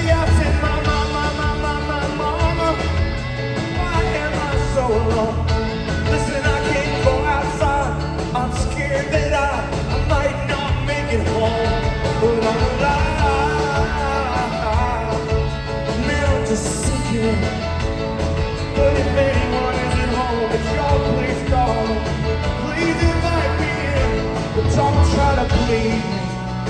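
Rock band playing live, with bass, drums and guitars and a voice singing over them.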